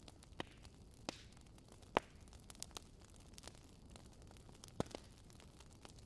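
Campfire crackling: scattered sharp pops and snaps at uneven intervals over a faint steady hiss, the loudest snap about two seconds in.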